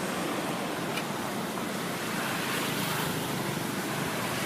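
Steady rushing background noise, even and without distinct events.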